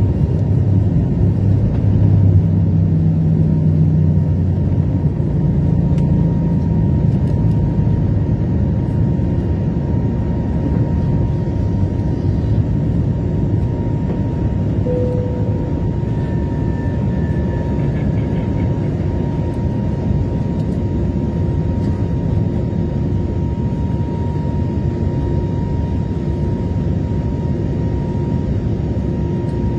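Airbus A321neo jet engines and airflow heard inside the passenger cabin during takeoff and climb: a steady low roar with a thin, steady whine, easing slightly in loudness over the half-minute.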